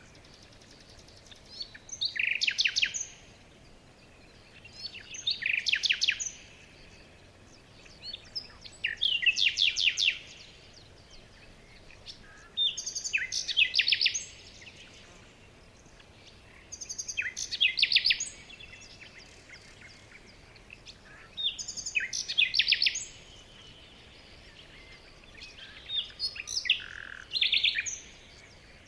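A songbird singing one short phrase over and over, about every four seconds. Each phrase is a quick run of high notes lasting a second or so, over a faint steady outdoor background.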